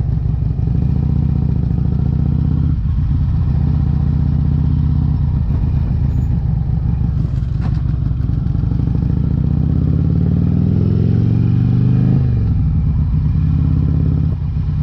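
2008 Harley-Davidson Electra Glide's V-twin running loud through Vance & Hines exhaust pipes while under way. The revs climb from about ten seconds in, then drop off sharply about two seconds later.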